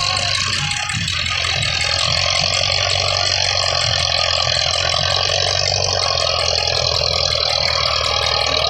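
Old tractor's diesel engine running steadily at a constant speed.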